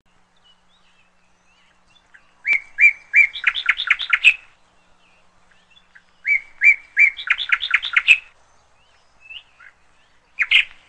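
Bird song: two similar phrases, each a few evenly spaced notes leading into a quick run of notes. A third phrase starts near the end.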